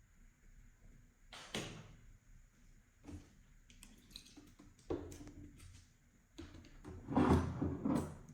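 Slime being squished and kneaded by hand: a few separate squishes with quick clicks and crackles, the longest and loudest stretch near the end.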